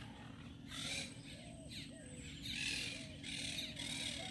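Birds calling: a series of short, harsh, cawing calls, several of them close together in the second half, over faint steady background noise.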